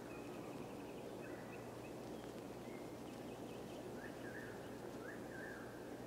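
Faint outdoor ambience of distant birds calling now and then over a steady background hiss.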